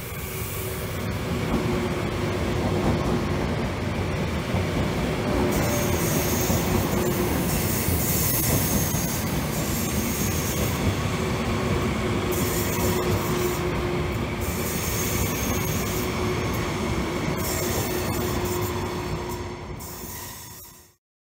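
Frecciarossa 1000 (ETR 400) high-speed electric trainset rolling past through the station, a continuous loud rumble of wheels on rail with a steady hum. Intermittent high-pitched squeals come and go through the middle as the coaches go by, and the sound fades out just before the end.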